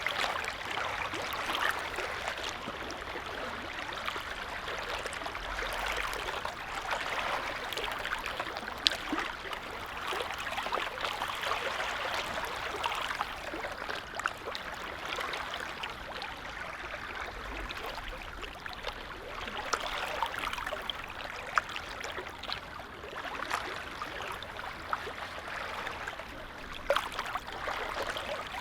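Small waves on a calm lake lapping, a steady wash of water that swells and eases every few seconds, with scattered small splashes and drips.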